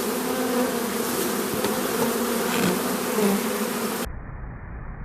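Honeybees buzzing in a dense, steady swarm around an opened colony. About four seconds in it cuts abruptly to a duller low rumble.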